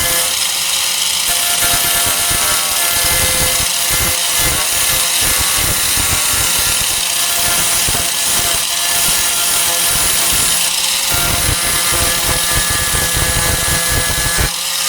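A 4-1/2 in. electric angle grinder running steadily, its disc grinding paint and rust off the sheet steel of a truck tailgate down to bare metal.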